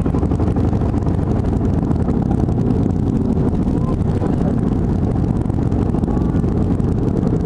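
Steady, loud low rumble of an airliner's engines and rushing air, heard inside the passenger cabin during the landing.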